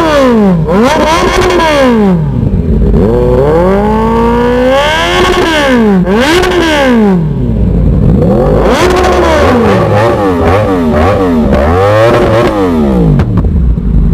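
Yamaha R1 inline-four sport-bike engine with a full-system Akrapovic exhaust, revved repeatedly while standing. A few longer throttle blips, one held as it climbs, are followed in the second half by a rapid run of short, sharp blips, each dropping back toward idle. Very loud.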